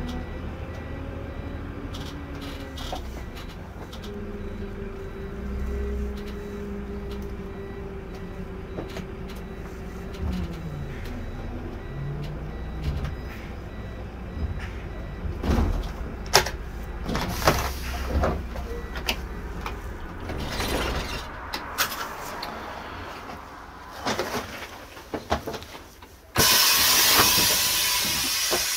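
Irisbus Récréo II coach on the move: engine and ZF EcoMat automatic gearbox running, with a whine that rises and then holds steady for several seconds, followed by scattered knocks and rattles. Near the end a loud compressed-air hiss starts suddenly.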